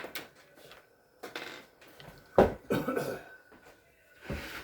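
Hard objects being handled: a series of knocks and clatters, the loudest about two and a half seconds in, over a faint steady high hum.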